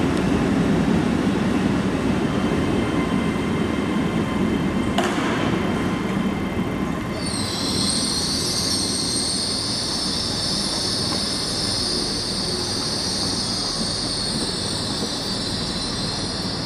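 LNER Azuma Class 801 electric train running past, with a steady electric whine and wheel rumble and a sharp click about five seconds in. From about seven seconds a loud, steady, high-pitched wheel squeal sets in as the train runs round the curved track.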